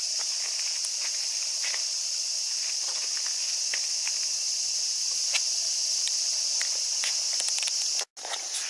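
A steady, loud, high-pitched chorus of cicadas, with a few faint ticks and scuffs of footsteps. The sound cuts out for an instant near the end.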